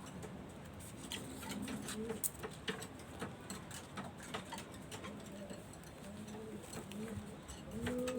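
Pigeons cooing, a run of short, low, rising-and-falling coos that come more often towards the end, with scattered sharp clicks among them.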